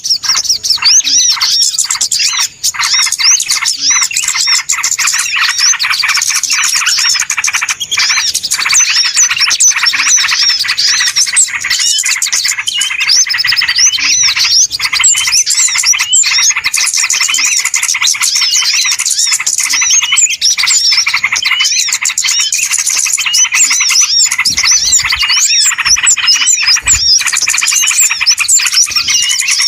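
Dense, continuous chatter of many small birds chirping and trilling at once in quick, overlapping calls. This is a bird-lure recording of a noisy small-bird flock, used to draw wild small birds in.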